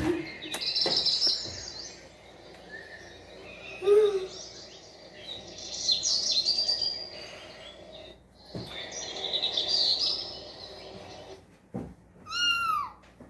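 High-pitched bird chirping in three bursts, then a quick run of falling whistled notes near the end.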